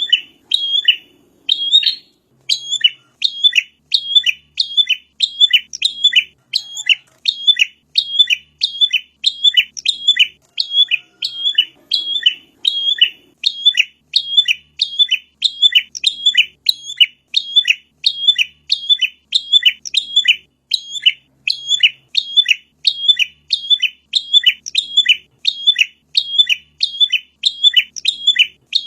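Prinia (prenjak) song from a bird-training recording: a sharp chirp repeated evenly about two times a second without a break, each note a quick downward sweep.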